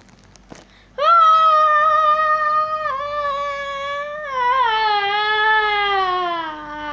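A child's voice holding one long wailing note for about six seconds, starting about a second in, stepping down once and then sliding lower in pitch toward the end.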